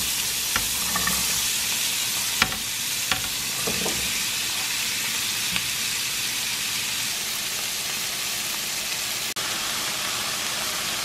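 Vegetables, peppers and onions, frying in garlic butter in a pan: a steady sizzle, with a few light clicks.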